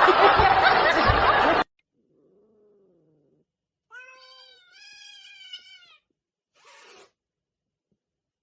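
A domestic cat meowing: a faint drawn-out call, then a longer wavering meow a couple of seconds later. Before that, a loud, noisy stretch cuts off suddenly about one and a half seconds in.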